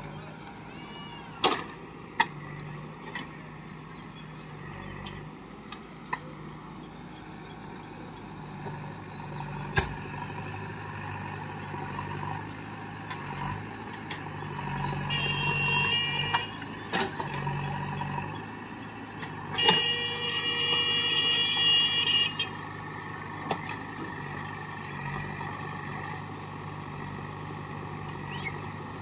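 JCB backhoe loader's diesel engine running steadily while it digs a ditch, with scattered sharp knocks. A high-pitched whine comes in briefly about fifteen seconds in and again, louder, for a couple of seconds around twenty seconds in.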